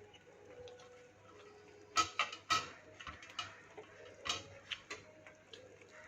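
Light metallic clinks and taps of a utensil against a cooking pot: a quick cluster of ringing clinks about two seconds in, then scattered softer taps.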